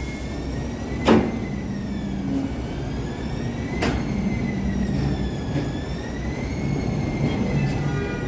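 Light rail train with a high whine that wavers slowly up and down in pitch over a low rumble. Two sharp clicks come about one and four seconds in, the first the loudest.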